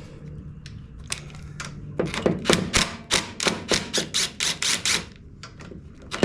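A regular run of sharp metallic clicks, about four a second, from hand-tool work on the mower, over a steady low hum.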